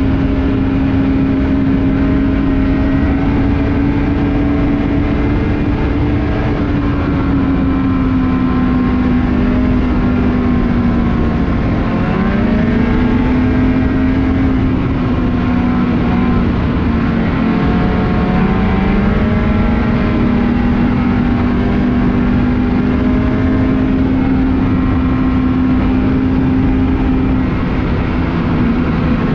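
Ski-Doo Renegade 600R E-TEC two-stroke snowmobile engine running at a steady trail cruise. Its pitch dips briefly about twelve seconds in and again a few seconds later as the throttle eases, then climbs back, over a steady rushing noise.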